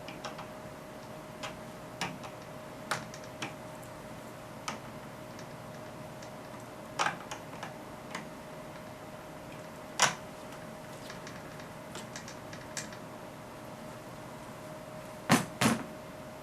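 Scattered small clicks and knocks of hand tools and hardware as a screw or part is tightened, with two louder knocks near the end. A faint steady whine runs underneath.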